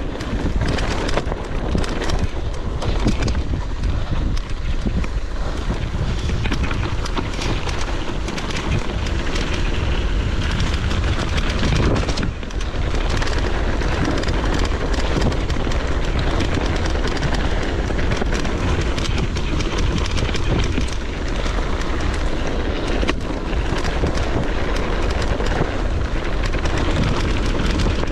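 Steady low rumble with wind buffeting the microphone, unbroken for the whole stretch apart from a brief dip about twelve seconds in.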